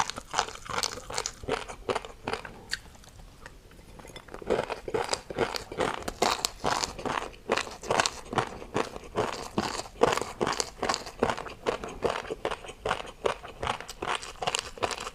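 Someone biting and chewing a crunchy food in rapid, irregular crunches, with a short lull about three seconds in before the chewing resumes.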